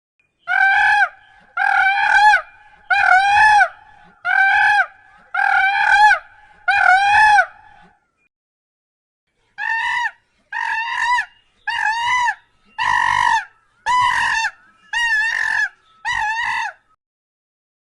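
Domestic fowl calling loudly: a run of six short, arched calls at about one a second, a pause of about two seconds, then seven more in the same rhythm.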